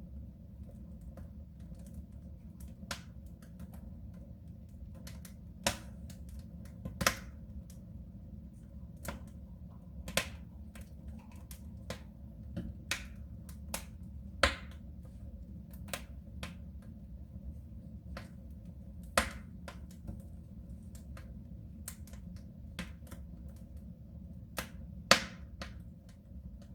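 Wood fire burning in a soapstone stove: a steady low rumble of the flames with irregular sharp crackles and pops, the loudest about halfway through and near the end.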